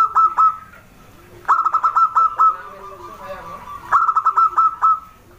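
Zebra dove (perkutut) cooing: three bouts of quick staccato notes, each bout lasting about a second, repeated about every two and a half seconds.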